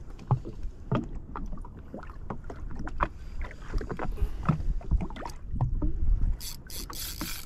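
Water slapping and splashing against a jet ski hull in irregular knocks, over a low wind rumble, with a short run of louder splashy hiss near the end.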